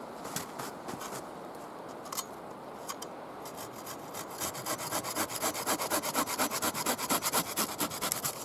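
Hand saw cutting wood, a few scattered knocks giving way about halfway through to quick, even back-and-forth strokes, about five a second, that grow louder.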